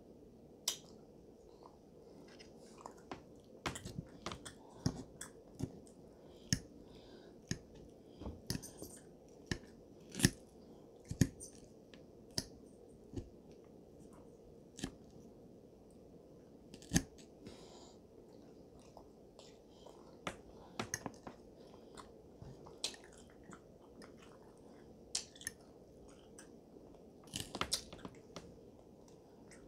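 Close-up chewing and mouth sounds of someone eating a croque-monsieur sandwich, with irregular sharp smacks and clicks scattered throughout and a fork working on the plate.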